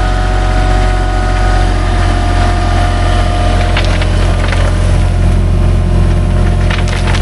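A machine's engine running steadily at a constant pitch, with a steady whine above it and a few brief knocks, such as rock clattering, near the middle and the end.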